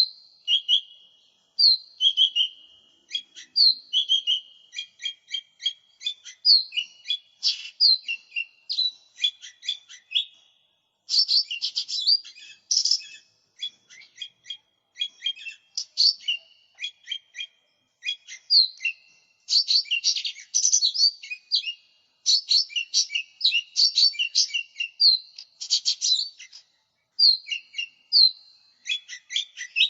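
Cucak ijo mini, a small green leafbird, singing a fast, varied song of chirps, whistled notes and trills, with a few short pauses.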